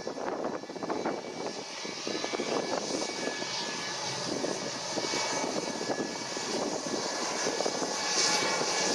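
Airliner engines running: a steady rushing noise with a faint whine held on a few steady pitches, growing louder near the end.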